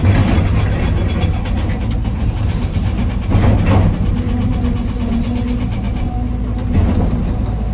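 Heavy diesel engines of an excavator and dump truck running steadily. Louder surges of noise come at the start, about three and a half seconds in, and shortly before the end.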